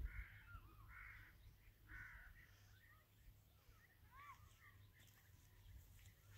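Faint, harsh bird calls, three about a second apart, then a few thin chirps, over a faint low rumble.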